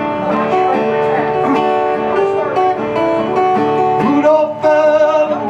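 Acoustic guitar strummed in an instrumental break of a live song, with sustained chords and a wavering melody line about four seconds in.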